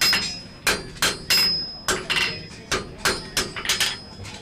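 Blacksmith's hand hammer striking steel on an anvil while forging a thumb latch, about ten blows at an uneven pace of two to three a second, some leaving a high ringing tone. The hammering stops shortly before the end.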